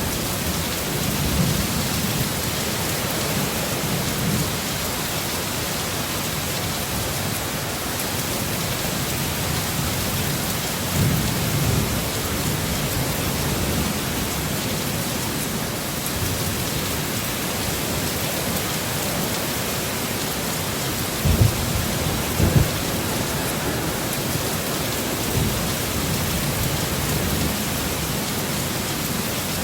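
Heavy storm rain with a steady, dense hiss. Low thunder rumbles swell under it several times, and two sharper jolts of thunder come about two-thirds of the way through.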